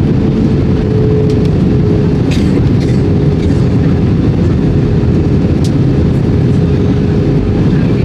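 Steady, loud rumble of an Airbus A320's cabin in flight, with a constant hum over the deep roar of the engines and airflow.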